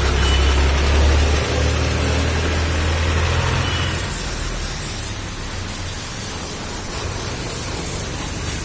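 High-pressure car-wash pump running and spraying water, a steady hiss with a low motor hum that drops away about four seconds in.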